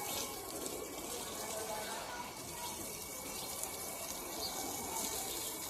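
Water running steadily with an even hiss.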